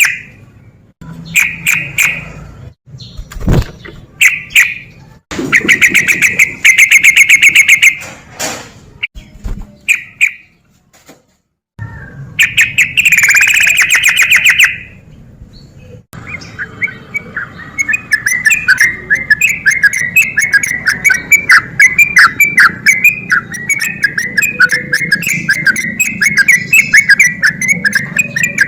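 Yellow-vented bulbul (trucukan) singing its loud, bubbly calls in separate bursts, then, from about halfway, a continuous rapid chattering run of notes.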